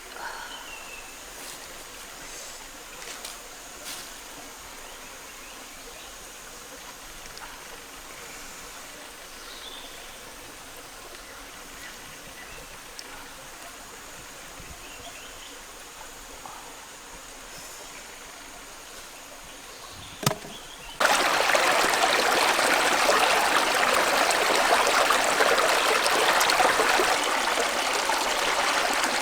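Quiet outdoor background with a few faint high chirps. After a sharp click about two-thirds of the way in, a loud, steady rush of running water, like a stream, starts suddenly.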